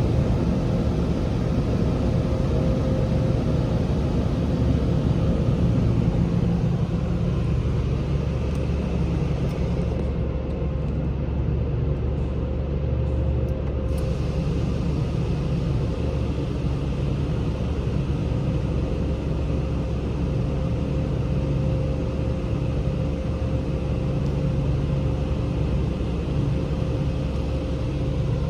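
A touchless automatic car wash running, heard from inside the car: a steady low rumble and hum with a hiss over it. The hiss briefly falls away about halfway through.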